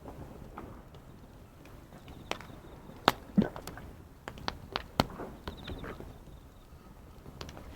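Wood fire crackling, with irregular sharp pops, the loudest about three seconds in and another cluster around five seconds. Faint insect chirping and a low wash of waves lie beneath.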